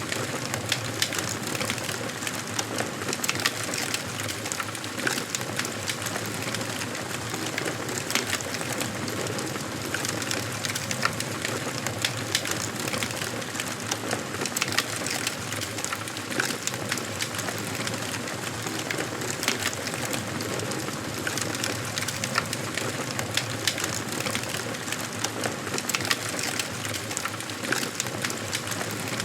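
Wood fire crackling in a fireplace: a steady hiss of burning with frequent sharp pops and crackles scattered throughout.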